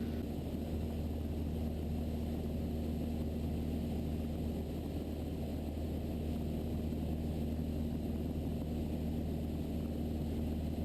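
Steady drone of a Mooney M20E light single-engine airplane in flight: its four-cylinder Lycoming engine and propeller running at constant power, a low even hum that does not change.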